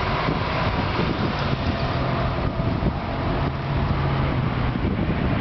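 Ford C-series fire engine's engine running steadily, with a low hum that grows steadier about halfway through.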